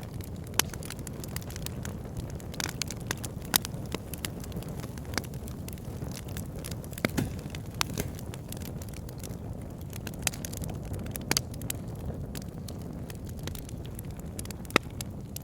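Wood fire in a fireplace burning with a steady low rumble and irregular crackling, with a few sharper pops of burning logs.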